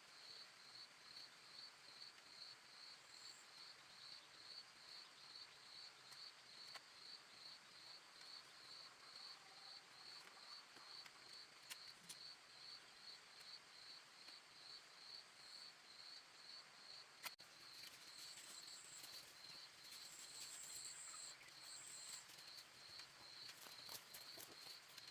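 Faint outdoor ambience of an insect chirping in an even rhythm, about three chirps a second, with short spells of a higher buzz toward the end and a few faint clicks.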